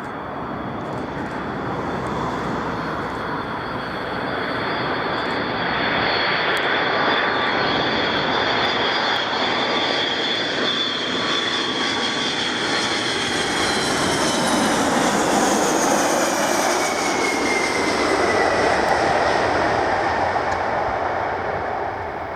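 Boeing KC-135 Stratotanker's four CFM56 turbofan engines passing close while the jet lands, growing louder over the first few seconds and then easing off near the end. A high engine whine slides down in pitch as the aircraft goes by.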